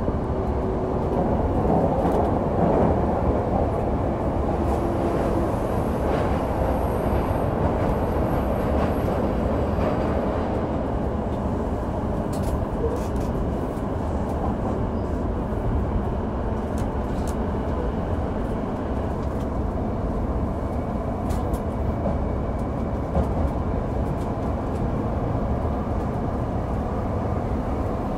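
Running noise of a JR Chuo Line Commuter Special Rapid, an E233 series electric train, heard on board: a steady rumble of wheels on rail with occasional light clicks.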